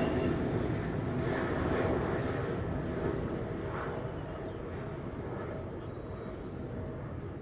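Boeing 777 jet engines at takeoff power, a broad rumble that fades steadily as the airliner moves away.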